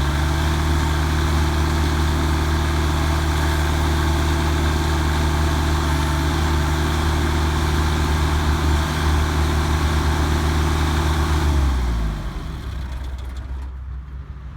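Mahindra Emax 22 subcompact tractor's diesel engine revved up to full throttle and held there steadily while the front loader is raised, then throttled back down to idle about twelve seconds in.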